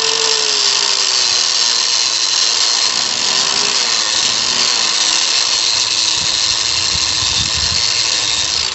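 Power tool fitted with a wire wheel running continuously against the metal of a drum-brake backing plate, cleaning it down; its motor tone wavers slightly and cuts off at the end.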